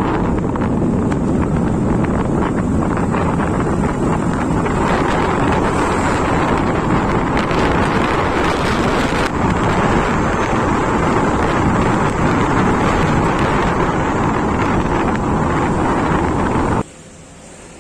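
Wind buffeting the microphone of a moving motorcycle, a steady loud rush mixed with engine and road noise. It cuts off suddenly about a second before the end, leaving a faint hiss.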